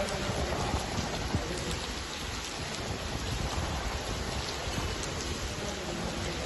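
Heavy cyclone rain pouring steadily in strong wind, an even hiss of downpour on paving and foliage.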